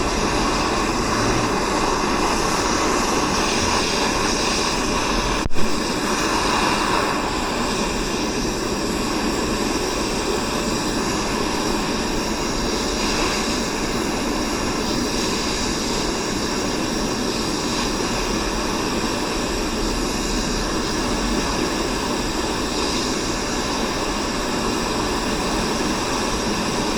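A gas torch burning steadily, heating bolts to loosen them so they can be backed off. One sharp click about five and a half seconds in.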